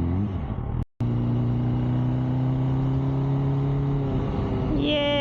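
MV Agusta Brutale motorcycle engine running while riding in traffic, with a short rev rising near the start. The sound cuts out for an instant about a second in, then the engine runs on at a steady pitch.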